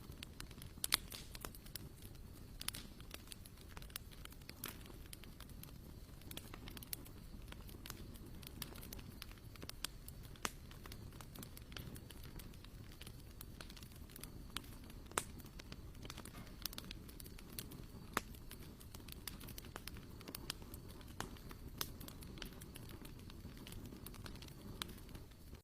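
Wood campfire crackling: irregular sharp pops and snaps over a low steady rumble of burning.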